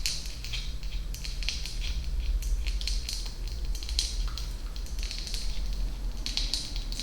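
Close-miked ASMR mouth sounds: quick wet clicks and smacks coming in irregular bunches, over a steady low hum.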